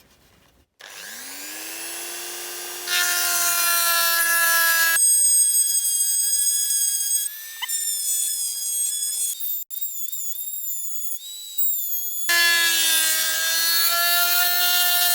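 Dremel rotary tool spinning up about a second in and running at a steady high pitch, grinding at the rivets holding a die-cast model's dashboard. Its tone thins to high whines only for several seconds in the middle, then the full motor sound returns.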